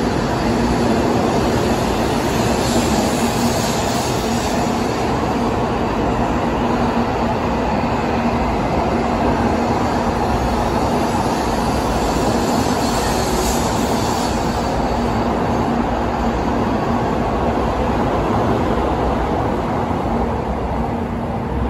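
N700A Shinkansen sixteen-car electric train running past the platform: a steady rush of wheels on rail and moving air, with a steady low hum. It brightens briefly with a hiss twice and eases off a little near the end.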